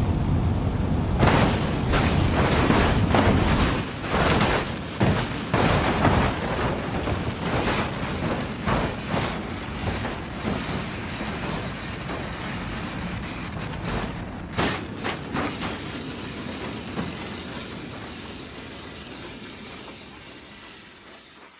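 A loud mechanical rumble with many sharp knocks and clatters, fading slowly away near the end.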